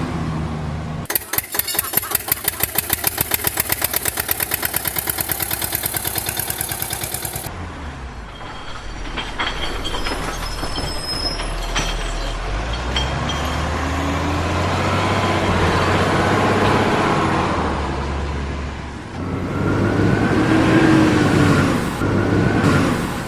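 Vehicle engine sounds. A fast, even chugging of about six beats a second runs for several seconds, then gives way to a lower, steadier engine note that rises and falls.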